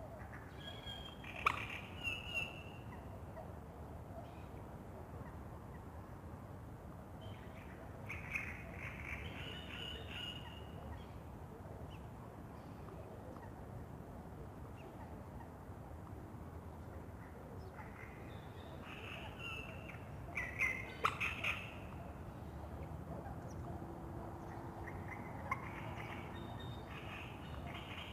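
Birds calling in four short bouts, several seconds apart, over a steady low rumble of background noise.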